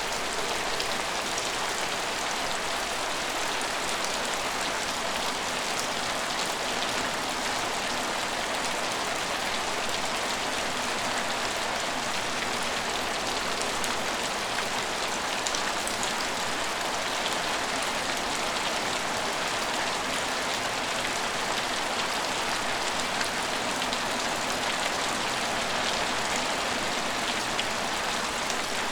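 Steady rain falling on an empty station, an even hiss with individual drops ticking here and there.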